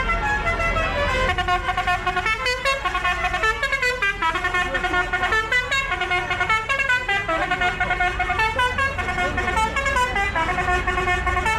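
A vehicle's musical horn playing a quick tune of stepped notes, over the steady low running of tractor engines.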